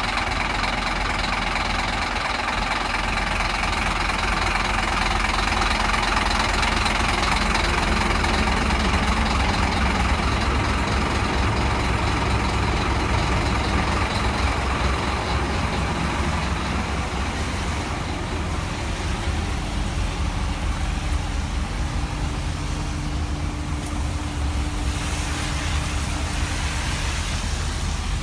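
Diesel engine of a Scania K270 city bus, a 9-litre five-cylinder, idling steadily with a deep, even drone.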